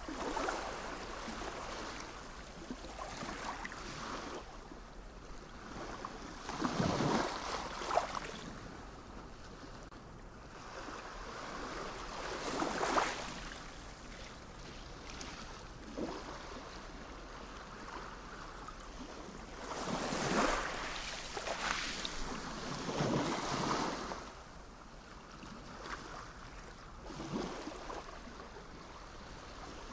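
Sea waves breaking and washing in, swelling and fading every several seconds over a steady background hiss of surf.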